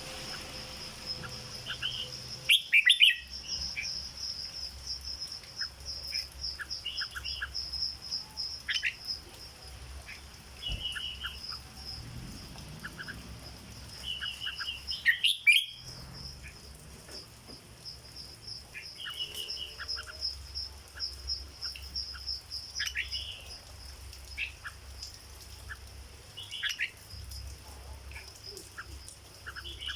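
Red-whiskered bulbul singing in short, scattered whistled phrases, with two louder, sharper phrases about 3 and 15 seconds in. A faint, steady, pulsing high trill runs behind the song.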